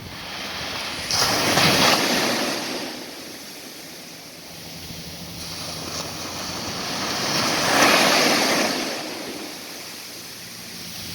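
Surf breaking on a sandy beach: two waves swelling up and washing out, about six seconds apart.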